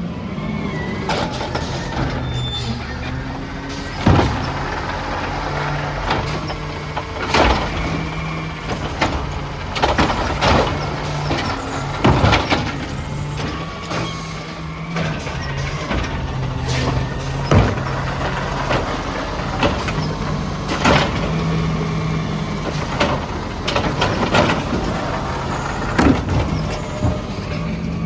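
Peterbilt 320 garbage truck running, with repeated sharp clanks and bangs every one to three seconds over the steady engine.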